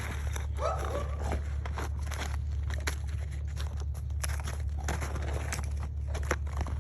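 German shepherd biting and crunching a chunk of ice, a string of irregular sharp crunches and clicks, with a brief pitched sound about a second in.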